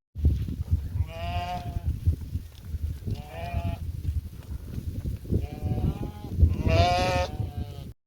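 Sheep bleating several times, about four calls, the loudest near the end, over a low rumbling noise.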